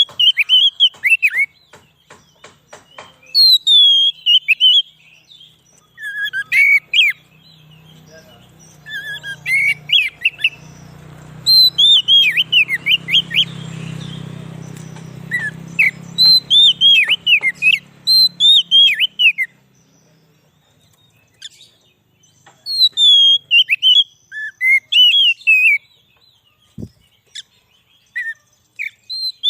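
Oriental magpie-robin (kacer) singing: bursts of loud whistled notes, many sliding downward, in phrases broken by short pauses. A low hum swells and fades through the middle.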